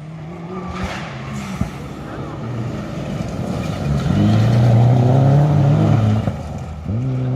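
Rally car engine approaching at speed, growing louder to a peak about four to six seconds in, its engine note stepping up and down in pitch, then cut off abruptly at the end.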